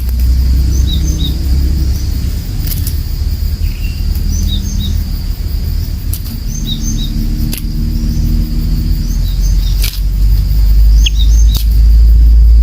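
Small birds chirping in short scattered calls over a steady high-pitched insect drone, with a strong low rumble and a few sharp clicks.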